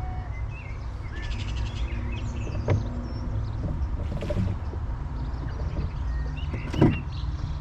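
Outdoor river ambience from a rowboat: a steady low wind rumble on the microphone with birds chirping, and two sharp knocks about four seconds apart, the second the louder.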